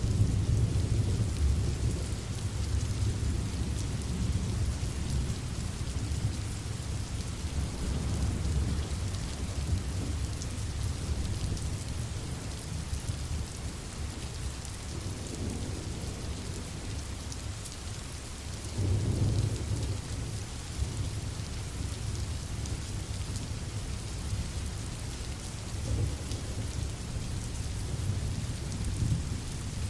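Steady rain hiss with low thunder rumbling underneath. The rumble is heaviest at the start and swells again about two-thirds of the way in and near the end.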